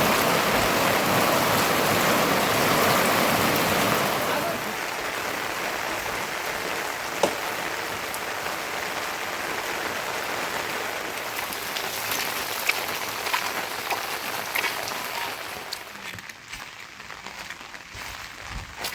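Rain falling steadily, louder for the first four seconds or so, then softer, with a few sharp ticks; it drops off further near the end.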